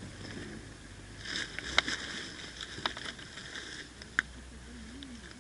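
Rustling and shuffling of movement through brush or gear, swelling for a couple of seconds, with three sharp clicks about a second apart.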